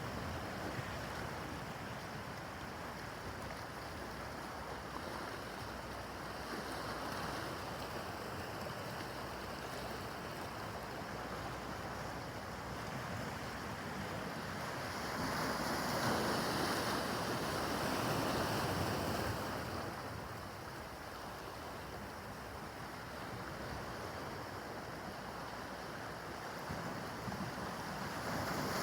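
Rough harbor water: waves washing in and breaking, with wind on the microphone. A louder surge of water comes about halfway through.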